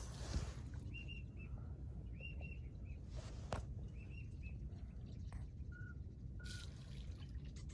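Small birds calling in the marsh: three quick clusters of short, high chirps, then two single lower notes near the end, over a steady low rumble.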